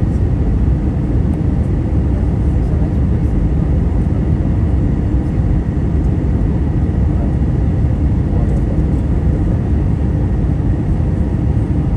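Steady rumble inside the passenger cabin of an Airbus A320-200 in flight, engine noise and airflow mixed, with a faint steady high tone above it.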